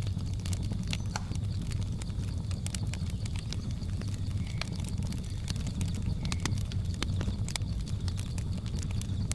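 Wood fire crackling, with many irregular sharp pops and snaps over a steady low rumble, and a faint steady high-pitched drone of jungle ambience behind it.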